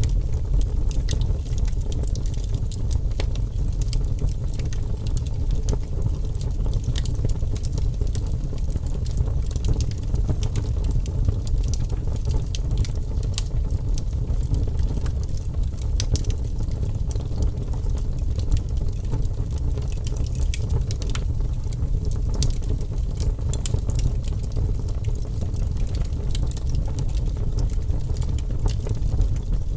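Wood fire in a fireplace crackling, with frequent small sharp pops over a steady low rumble of the flames.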